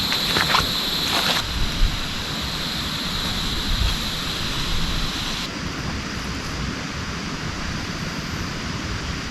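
Heavy rain falling steadily, an even dense hiss. A high steady whine and a few sharp ticks sit on top of it for the first second and a half, then stop abruptly.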